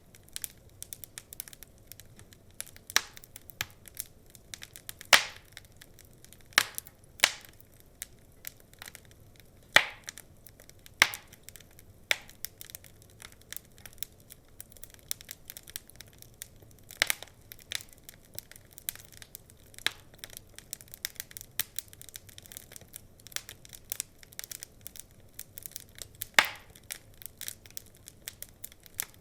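Wood fire crackling: irregular sharp pops and snaps over a faint low hiss, with a handful of louder pops standing out.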